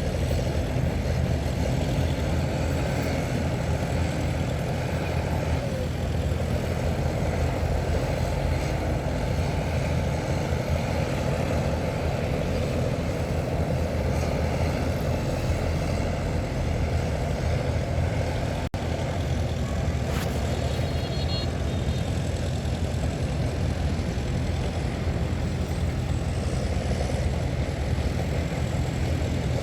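Heavy diesel engines of earthmoving machines, bulldozer and dump trucks, running steadily, with a momentary break in the sound about two-thirds of the way through.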